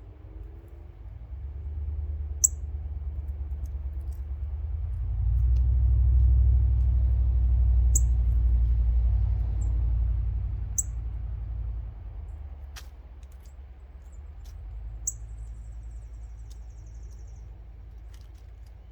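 A low rumble swells to a peak and dies away over about ten seconds, while small birds at the feeder give a few short, sharp high chips and a brief faint trill near the end.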